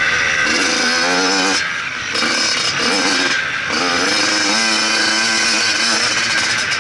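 Motocross bike engine revving up and down as it rides, the throttle shut off briefly about two seconds in and again about three and a half seconds in.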